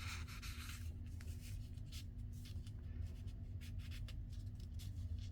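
Paper tags being slid down into a cardstock pocket, rustling for about the first second, then small scattered taps and rubs of paper being handled, over a low steady hum.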